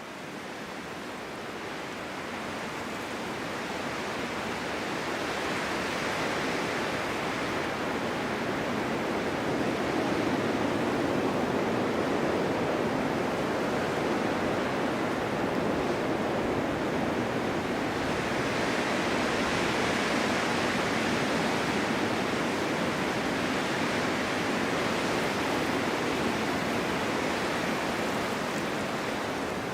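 Blizzard wind blowing as an even rushing noise. It fades in over the first few seconds, then swells and eases in slow gusts.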